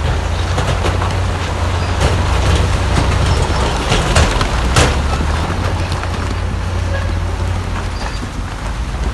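Heavy diesel construction machinery running with a steady low rumble, with several sharp knocks and clatters around the middle.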